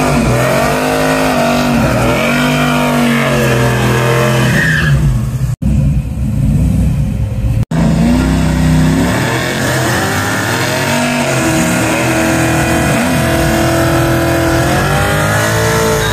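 Drag-race engines revving hard at the start line, the revs sweeping up and down again and again, then held high and steady near the end while tyres spin in a smoky burnout. The sound cuts out briefly twice.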